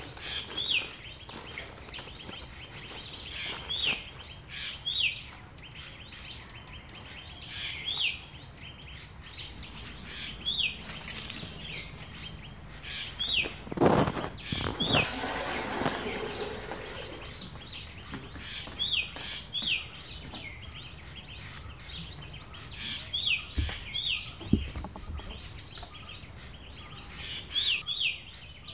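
A bird calling over and over with short, high chirps that sweep up and drop, often in pairs or threes, against steady outdoor background noise. A louder burst of noise comes about halfway through, and a couple of low thumps follow a few seconds later.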